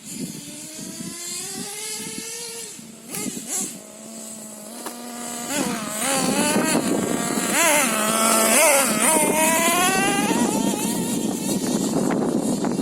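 Small two-stroke nitro glow engine of an RC monster truck, an LRP ZR.28 Spec 4, running. Its pitch climbs over the first couple of seconds and settles to a steady idle. From about six seconds in it is revved up and down several times with quick throttle blips, louder and rougher toward the end.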